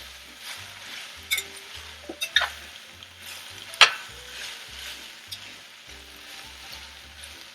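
Cremini mushrooms, carrots and onions sizzling in a hot pan as they are stirred, with a utensil clicking and scraping against the pan several times, loudest about four seconds in.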